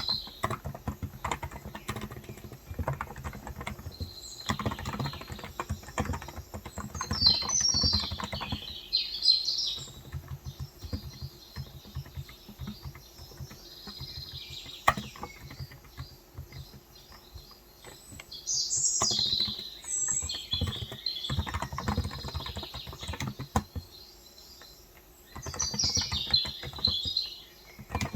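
Typing on a Cox Endeavor electro-capacitive keyboard with 35 g keys: runs of soft, quick keystrokes that pause and resume. Birds chirp in short clusters several times over it.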